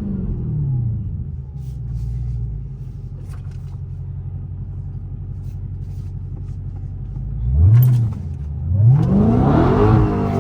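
Dodge Charger Hellcat Redeye's supercharged 6.2-litre HEMI V8 with its mid mufflers deleted: the revs fall back to a steady idle. About seven and a half seconds in there is a short blip of the throttle, and near the end a longer, louder rev.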